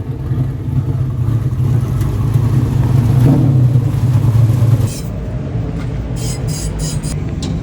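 Dirt modified race car engine running with a steady, loud low rumble that drops away sharply about five seconds in, followed by a few light clicks.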